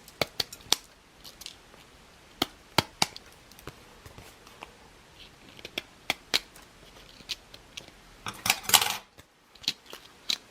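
Scissors snipping off paper edges on a handmade card: scattered sharp snips and clicks, with a denser, louder stretch of cutting about eight and a half seconds in.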